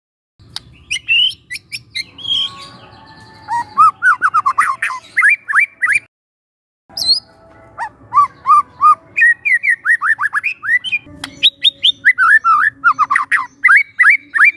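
Young wild white-rumped shama singing: rapid runs of short whistled and chirping notes, some sliding up or down in pitch. The song breaks off for about a second midway, then resumes.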